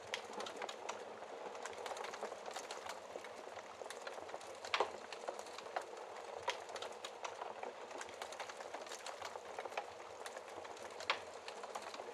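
Wood fire crackling in a fireplace: a steady hiss full of irregular small snaps, with a few louder pops, the loudest about five seconds in and again near the end.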